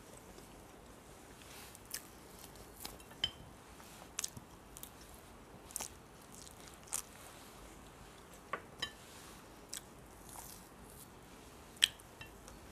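Close-up eating sounds of a person biting and chewing fried chicken: scattered short mouth clicks and smacks between quiet stretches, the sharpest a little before the end.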